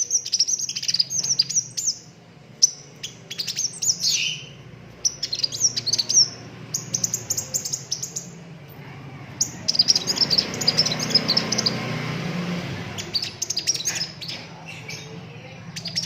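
A sunbird singing bursts of rapid, high twittering chirps and trills, with a faint steady low hum underneath. A rushing hiss rises about ten seconds in and lasts a few seconds.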